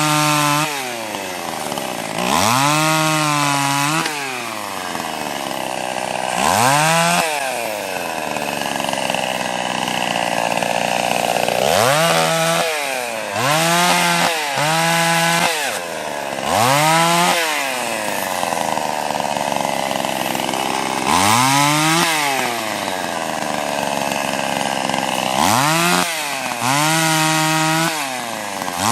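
Gas chainsaw revving up repeatedly in short cuts through sweet gum limbs, the engine pitch settling while it cuts and dropping back to idle between cuts, about a dozen times.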